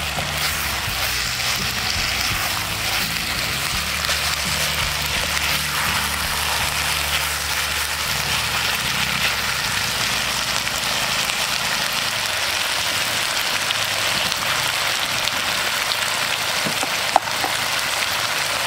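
Potato strips frying in hot sesame oil in a clay pot: a steady sizzle, with a single sharp click near the end.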